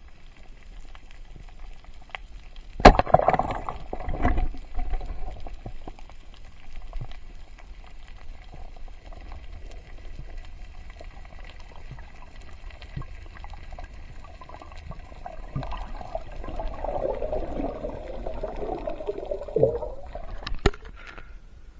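Water gurgling and bubbling, with sharp knocks about three and four seconds in and a burst of denser bubbling near the end.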